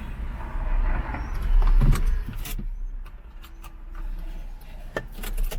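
Car running on the road with a low rumble. About two and a half seconds in it drops away to a quieter background broken by scattered clicks and knocks.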